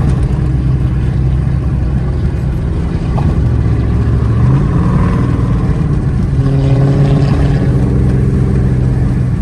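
Pontiac G8's engine running under way, steady and loud, its pitch stepping up about four and a half seconds in and pulling harder again around six and a half seconds.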